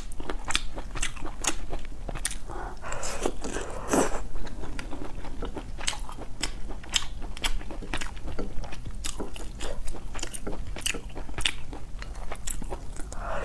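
Close-miked chewing and crunching of food: sharp mouth clicks and bites at an irregular two to three a second, with a louder, longer noisy stretch about three to four seconds in.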